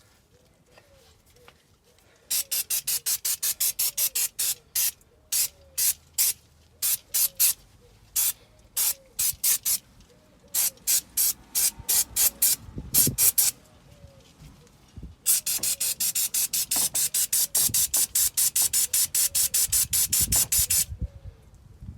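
Liquid being sprayed in short, rapid hissing squirts, several a second, the way a trigger spray bottle is pumped to clean car parts. There are three runs: one from about two seconds in, a shorter one around eleven seconds, and a longer, denser run from about fifteen seconds to near the end.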